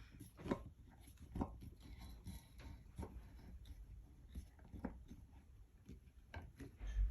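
Scattered light clicks and knocks of screws being tightened into a ceiling fan's metal mounting bracket, with small handling noises.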